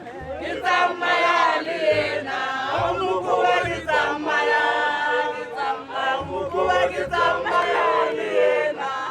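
A group of voices singing and chanting together, several pitches overlapping, a celebratory song over the downed elephant bull.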